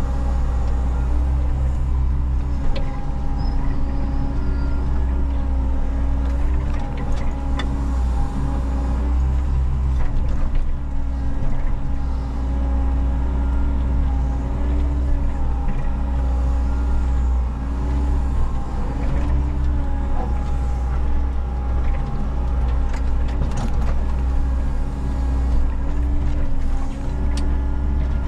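Diesel engine of a Menzi Muck walking excavator running steadily under work, a deep hum with a few short knocks scattered through it.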